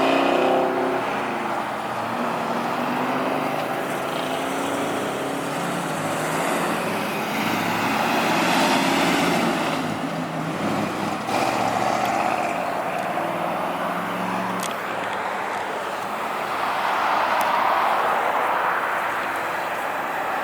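Car engines and exhausts as cars drive past one after another, the sound swelling as each one goes by and fading again.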